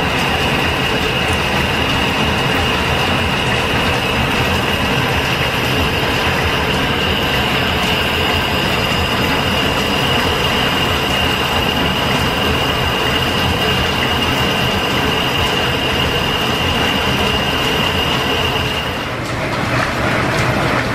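Metal lathe running slowly in back gear while cutting a square thread: steady gear-train running noise with a high steady whine, which stops about nineteen seconds in.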